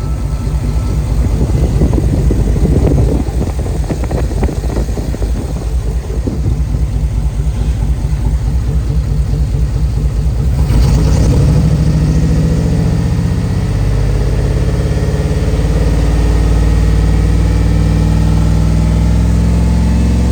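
Used 2003 GM 6.0L gasoline V8 engine running: a rough, pulsing idle for about the first half, then brought up to a higher, steadier speed about halfway through.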